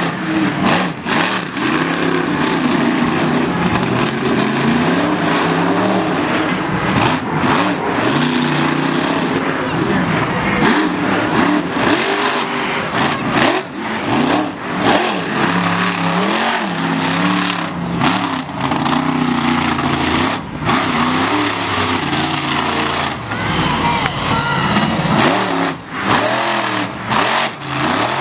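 Monster truck engine revving hard, its pitch climbing and dropping again and again, with sharp cracks and knocks scattered through it.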